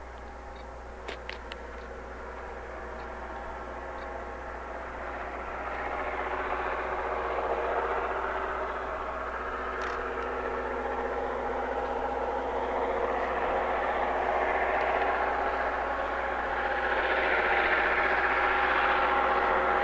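Diesel locomotive engines running steadily as a train approaches, growing louder throughout, with a few faint clicks about a second in.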